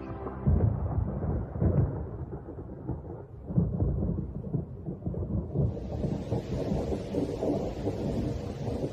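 Thunder rumbling in several heavy rolls, with rain setting in as a steady hiss about halfway through.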